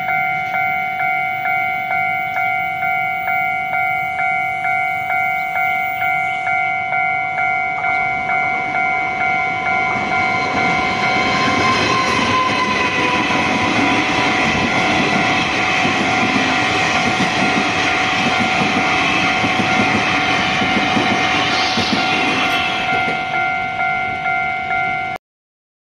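Level-crossing warning bell ringing about one and a half times a second while a locomotive-hauled Chu-kuang Express passes over the crossing. The train noise builds from about ten seconds in, stays loud for around ten seconds and eases off. Everything cuts off abruptly near the end.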